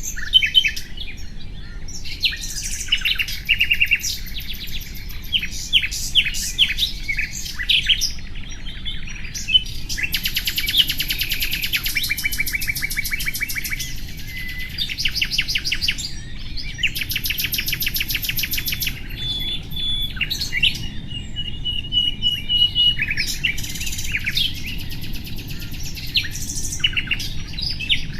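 Nightingale singing a varied song: runs of fast repeated trilled notes and clear held whistles, in phrases broken by short pauses.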